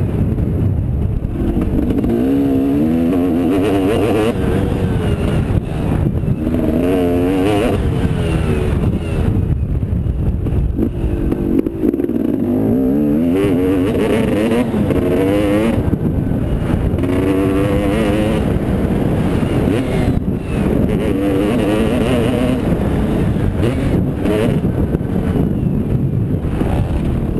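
Motocross bike engine running hard under load, its pitch climbing and dropping again and again as the throttle is opened and shut, over a constant heavy low rumble.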